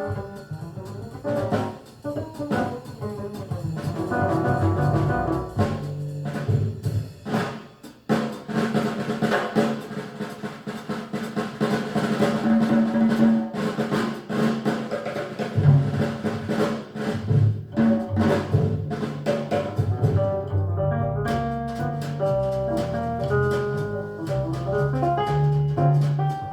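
Recorded music with a prominent drum kit and pitched instrument parts, played back over Klipsch Forte III loudspeakers driven by a Rogue Audio Cronus Magnum III amplifier.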